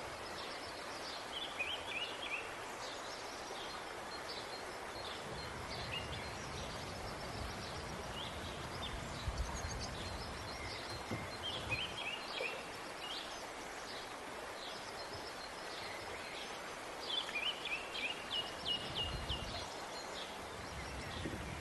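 Small birds chirping in quick repeated series of short high notes, over a steady outdoor hiss.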